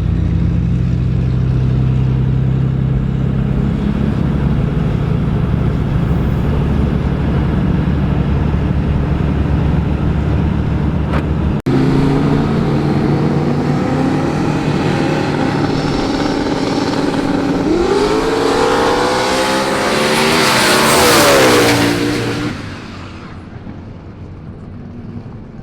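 Truck engine running steadily. After a sudden cut about twelve seconds in, an engine runs on and a vehicle passes close, its pitch sweeping up and down as it grows loud, then falling away sharply near the end.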